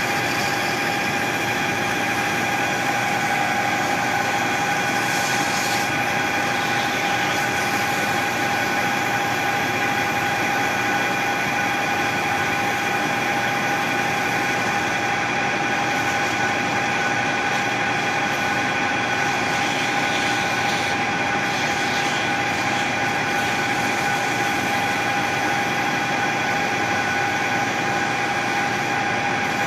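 Machine tool running steadily while machining a custom shift knob, giving a constant whine at one pitch over a hiss of motor and cutting noise.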